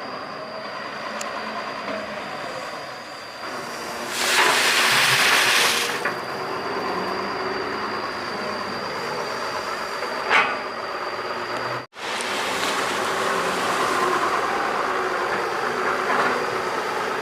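Doosan 140 crawler excavator working, its engine and hydraulics running steadily with a thin high whine. About four seconds in there is a loud rushing hiss lasting about two seconds, and a short sharp knock near ten seconds.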